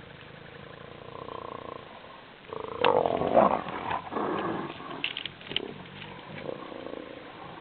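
Spotted hyenas calling while they fight over a carcass: a drawn-out call about a second in, then a loud outburst of cries about two and a half seconds in, and shorter sharp cries after it.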